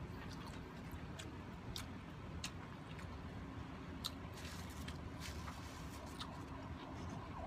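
Close-up chewing with scattered wet mouth clicks and smacks from someone eating rice and laing by hand, heard over a low steady background rumble.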